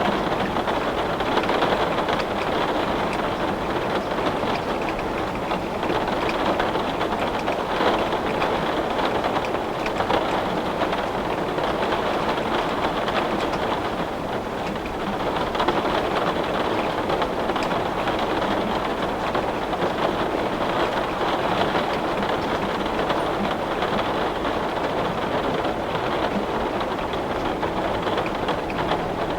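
Heavy rain beating steadily on a window pane, a dense patter with small swells in intensity.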